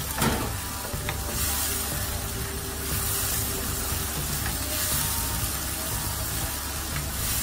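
Chopped onions and ginger-garlic paste sizzling in a frying pan while a wooden spatula stirs and scrapes them, with one brief louder sound just after the start.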